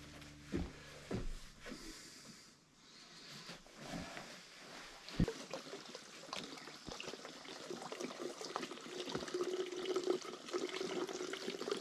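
Faint trickling water with scattered small clicks, getting a little stronger in the second half.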